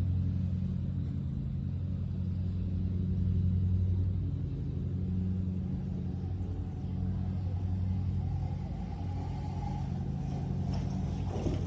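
Dirt bike engine running steadily while being ridden, a low hum that swells and eases a little.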